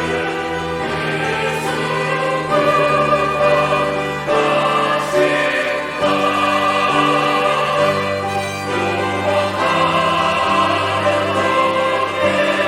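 Church choir singing an anthem in sustained chords, accompanied by organ and piano with steady low bass notes.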